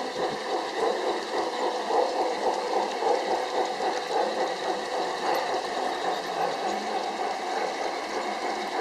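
G scale garden-railway model train running along its track, a steady rumbling clatter.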